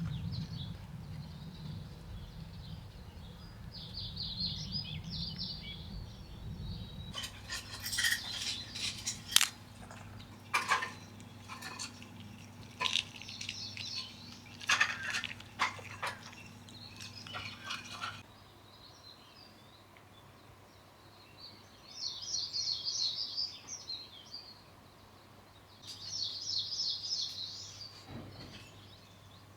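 Small birds singing in short phrases, three of them standing out near the start, a little past the middle and near the end. For about ten seconds in the middle there is a run of sharp clicks and knocks from something being handled, and a low rumble in the first few seconds.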